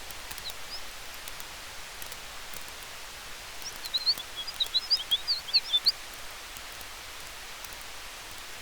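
Steady hiss of a night-forest campfire ambience with faint crackling ticks. From about four seconds in, a quick flurry of high chirps lasts about two seconds.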